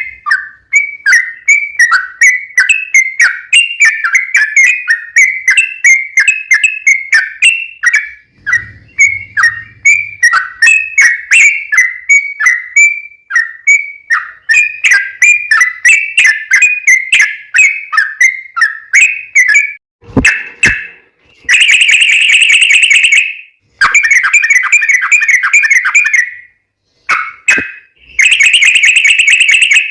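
Yellow-vented bulbul (trucukan) singing a long rapid run of short bubbly notes, about three to four a second, for some twenty seconds. After a short break come several loud, harsher stretches of dense chattering.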